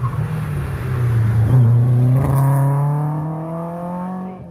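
BMW 2002 rally car's four-cylinder engine under hard acceleration. Its note climbs steadily in pitch for a couple of seconds, then drops sharply near the end as the revs fall off for a gear change or lift.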